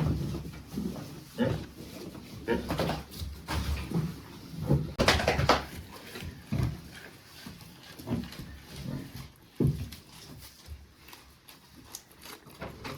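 Animal calls, short and irregular about once a second, mixed with sharp knocks; the strongest call comes about five seconds in.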